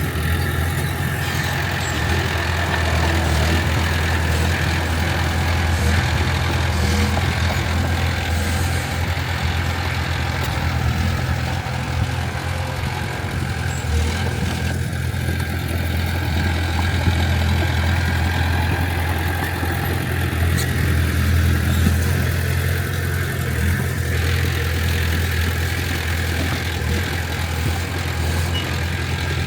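Diesel engine of heavy earthmoving machinery running steadily with a low, even hum, and a few faint knocks along the way.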